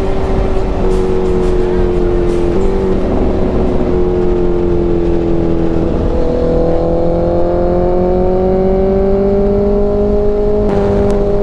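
Motorcycle engine running steadily under way, its note dipping slightly twice, then rising slowly as it picks up speed, over a steady low rumble.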